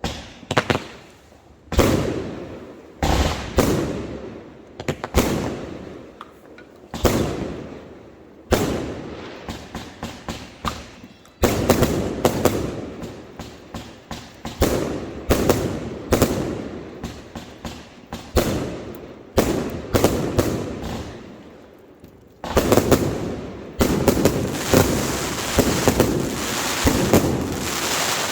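Fireworks going off: a run of sharp bangs about a second apart, each dying away in a crackling tail. Near the end they pile up into a dense, continuous crackling barrage.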